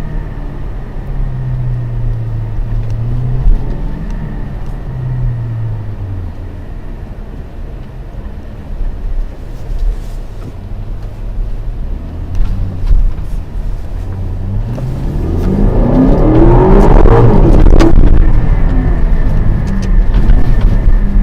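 Aston Martin DBX's AMG-built 4.0-litre twin-turbo V8 under way with its exhaust valves open. It runs low and even at first, then about two-thirds in it revs up hard under acceleration, rising steeply in pitch to its loudest, then drops back near the end.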